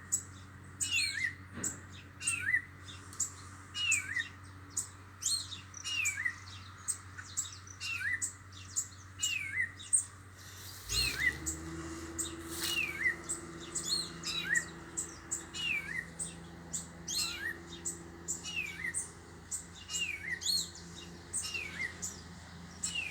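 A bird calling over and over, one short sharp note about once a second, over a steady low hum.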